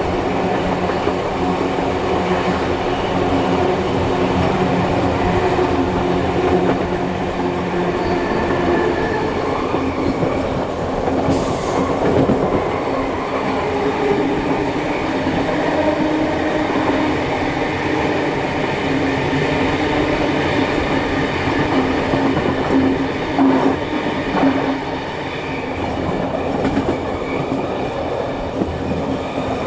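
Train running on the rails behind two steam locomotives: a steady rumble of wheels on track with several held whining tones throughout, and a brief sharp hiss or clank about 11 seconds in.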